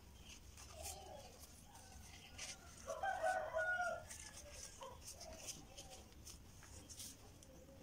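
A faint animal call, about a second long, about three seconds in, with a weaker call shortly before it.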